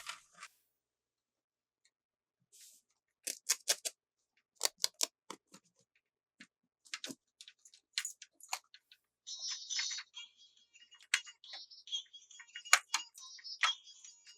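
Plastic toy pieces being handled: sharp clicks and taps in small irregular clusters, then a high rustle mixed with clicks from about nine seconds in.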